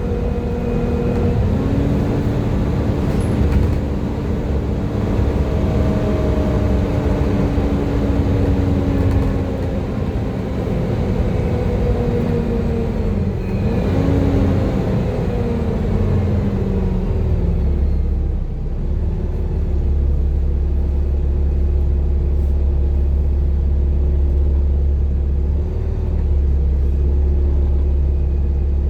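Volvo B7TL double-decker bus's six-cylinder diesel driveline running under way, with the whining 'hoover' tone enthusiasts know these buses for. The whine slides slowly down in pitch, dips and briefly picks up about fourteen seconds in, and fades out at around seventeen seconds. After that a steady deep rumble takes over.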